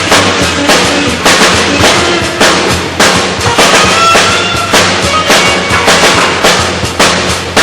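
Band playing during a soundcheck: a drum kit keeping a steady beat of about two to three strokes a second over low bass notes, loud.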